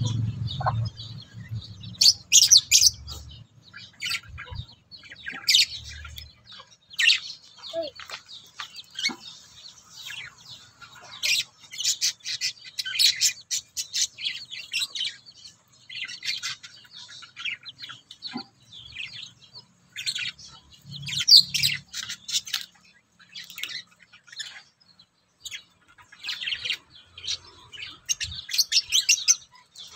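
Pet African lovebird chirping in repeated short runs of high, thin chirps, every second or few.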